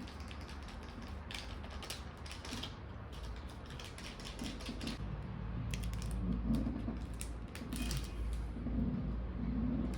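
Close-miked chewing of crispy fried chicken strips: runs of rapid, sharp crunches, with a pause of a second or so between the runs.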